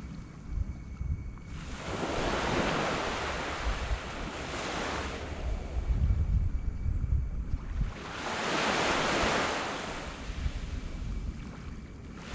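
Small waves breaking and washing up a black sand beach: two surges of surf, about six seconds apart, each swelling and fading, with a low wind rumble on the microphone underneath.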